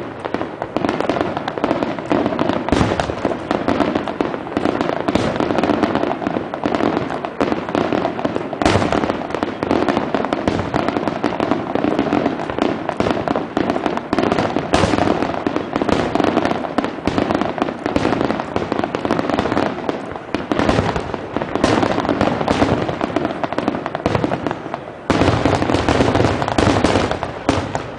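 Aerial fireworks display: shells bursting one after another with continuous crackle. About 25 s in it builds to a louder, denser barrage, then cuts off suddenly near the end.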